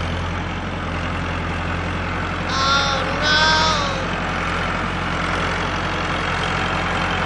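Small electric motor of a homemade toy tractor running with a steady hum. About two and a half seconds in, two short pitched calls sound over it.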